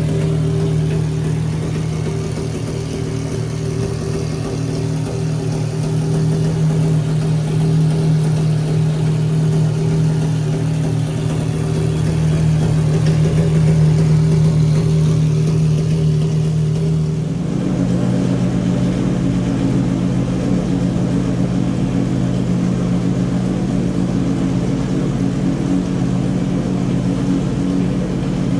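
Pagani Zonda R's V12 engine running at a steady speed, a constant note with no revving; about two-thirds of the way through, the note changes abruptly to a slightly different pitch and stays there.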